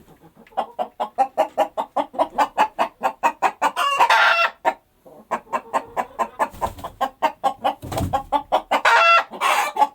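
Chickens clucking in a fast run of short clucks, about five a second. Louder, drawn-out squawks break in about four seconds in and twice near the end, with a short pause just before the middle.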